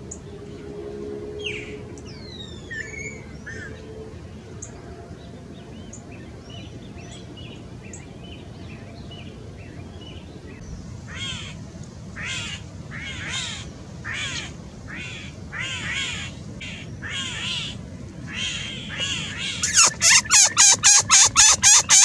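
Bird calls: a few thin whistled notes, then a series of harsh, downward-sweeping calls about once a second that build into a loud, rapid run of about four calls a second near the end.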